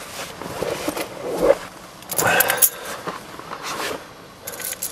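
Car keys jangling, with rustling and scraping handling noise in between.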